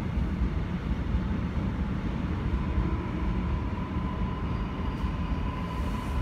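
Electric multiple-unit commuter train running past on the tracks, a steady rumble of wheels on rail. A thin steady whine comes in about halfway through and holds.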